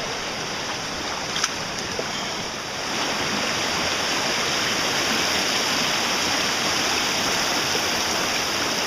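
River water rushing through rapids: a steady rush that grows a little louder about three seconds in.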